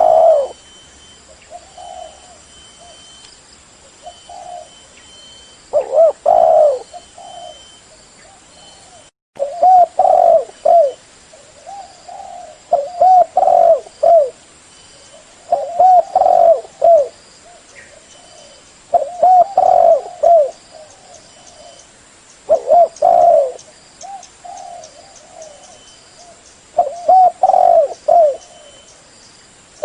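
Spotted dove cooing: loud phrases of several short, low coos, repeated about every three to four seconds.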